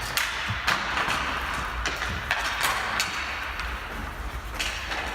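Ball hockey play: irregular sharp knocks and clacks of sticks and ball on the playing surface, over a steady low hum.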